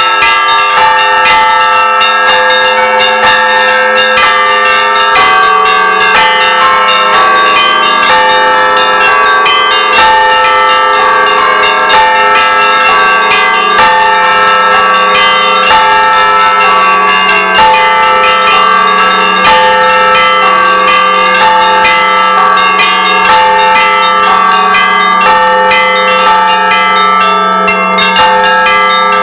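Church bells rung together in a continuous, fast rhythmic peal, many higher bells struck over and over above a low, sustained bell tone.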